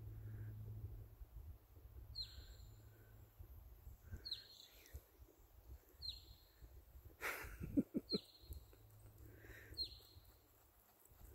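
A bird calling in the forest: five short calls, each dropping in pitch, about every two seconds. A brief rustle and a few low thumps come about seven seconds in and are the loudest thing heard.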